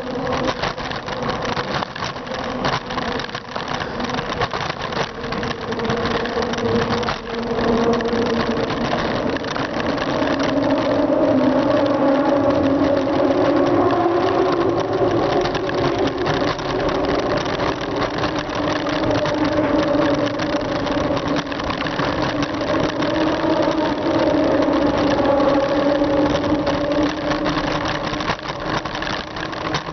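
Steady riding noise from a bicycle on the road: a continuous hum that slowly drifts in pitch, over a haze of wind and tyre noise.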